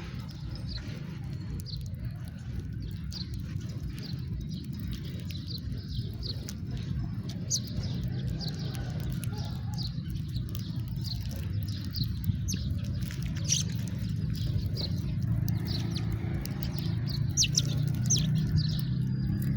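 House sparrows chirping: many short, sharp chirps in quick succession, busier in the second half, over a steady low background rumble.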